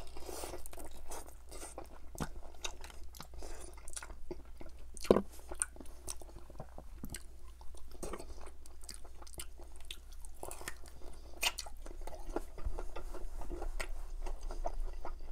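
Chewing and biting of crispy fried chicken drumsticks coated in butter chicken sauce: a run of crackly crunches and wet chewing, with one sharper click about five seconds in.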